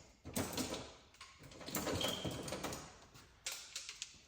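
Tools being handled in a metal tool cart: a string of irregular knocks, clicks and scrapes.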